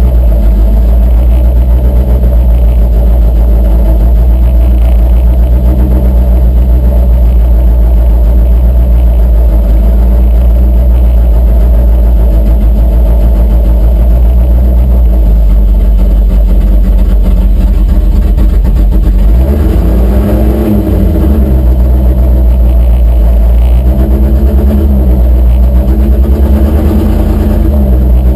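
Pulling truck's engine running loud and steady, then from about twenty seconds in revving up and down several times.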